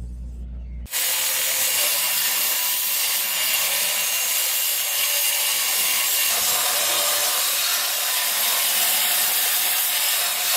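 A power tool grinding or sanding the steel blade, a steady harsh abrasive hiss that starts abruptly about a second in.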